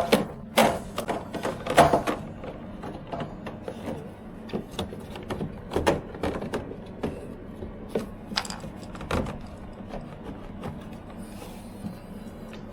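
Scattered clicks and light knocks of plastic parts and wire connectors being handled and pushed into place inside a tumble dryer, at irregular spacing.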